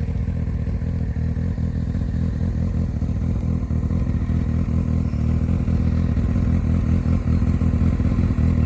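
Honda CBF1000's inline four-cylinder engine running steadily at idle through a newly fitted straight aftermarket exhaust with Yoshimura-style mufflers, with a deep, even exhaust note that grows slightly louder toward the end.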